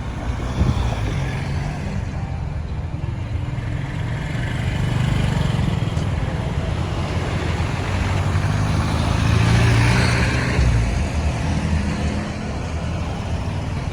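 Busy road traffic: engines of passing vehicles running, with a louder vehicle swelling past about two-thirds of the way through.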